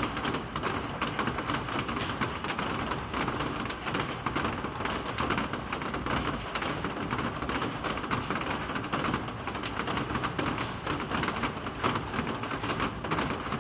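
Steady rain falling, a continuous hiss made up of many small drop ticks.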